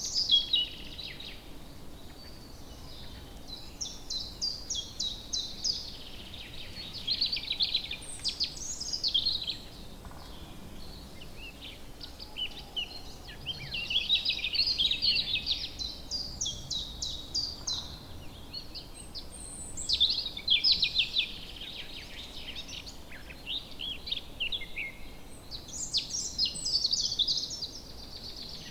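Woodland birds singing: several birds trill and chirp in quick, repeated high phrases, coming in bouts every few seconds over a faint steady background hiss.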